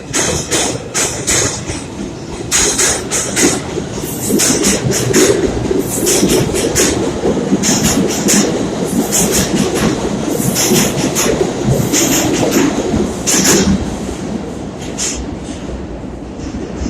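New York City subway train running along the track: a loud rumble with rapid sharp clacks of the wheels over rail joints, easing off near the end.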